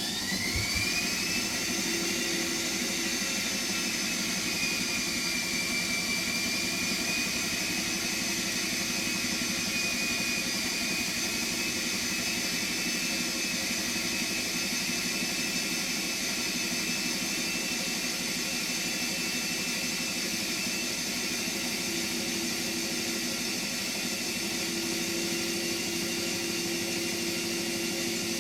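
Hotpoint WMXTF742K washing machine spinning at high speed. Its motor whine finishes climbing about a second in, then holds at a steady high pitch with a slight wavering, over the steady rush of the spinning drum.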